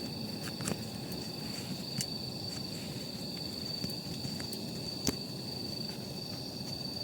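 Wood campfire burning with a steady low rustle and scattered crackles, three sharper pops standing out. A constant high insect trill, like a cricket, runs underneath.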